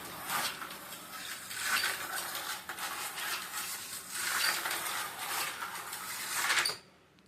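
Slot car without magnet traction running laps on a plastic slot car track: a rattling, clattering buzz of the car's motor, guide and pickup shoes on the rails, swelling and fading as it comes round and passes, then stopping suddenly near the end.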